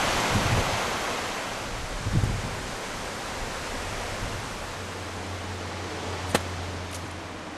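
River water rushing: a steady, even hiss that slowly fades, with a low gust of wind buffeting the microphone about two seconds in and two sharp clicks near the end.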